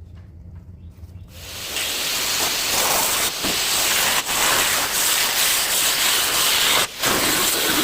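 Steel plate being cut off a tractor rim to be re-fitted. After a low hum at first, the cut starts about a second in as a loud, steady rushing noise, with a brief break near the end.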